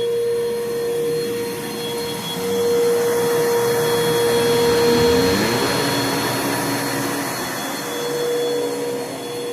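Bissell PowerForce Bagless 6583 upright vacuum cleaner with a 10-amp motor running steadily over carpet, a constant motor whine over airflow hiss. About five seconds in, a lower tone in the sound slides upward.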